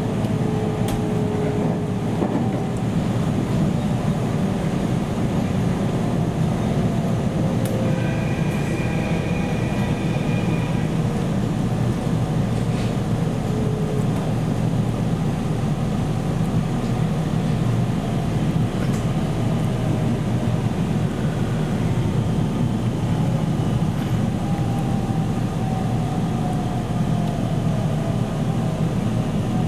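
Interior running noise of a JR Central 313 series electric train (motor car KuMoHa 313-1315): a steady rumble of wheels on rail with a faint motor whine. Near the end the whine slowly falls in pitch as the train slows toward its stop at Kanayama.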